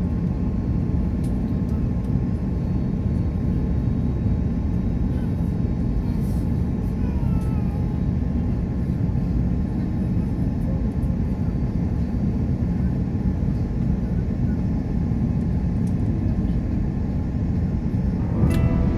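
Steady low rumble of an Airbus airliner's engines and airflow heard from inside the passenger cabin.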